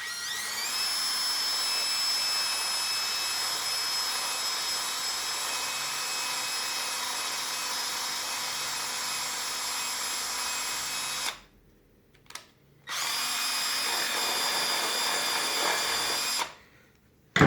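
Small high-speed electric power tool running, spinning up with a rising whine and then holding a steady high whine for about eleven seconds. It stops briefly, then runs again for a few seconds before stopping. It is widening the inner bore of a handbrake cable fitting to give it more slack.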